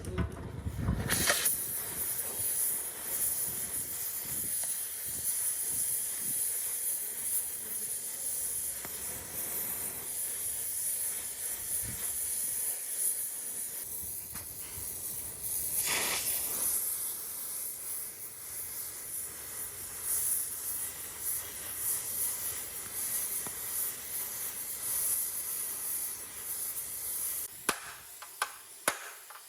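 A steady hiss with a brief louder flare midway, cutting off near the end, followed by a few sharp ticks.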